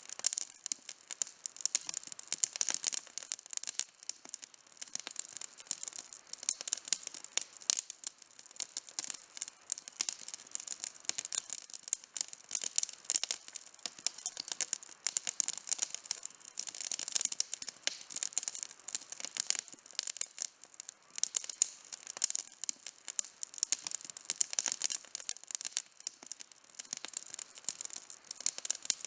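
Campfire burning, the wood crackling and popping in a dense, irregular stream of sharp high snaps.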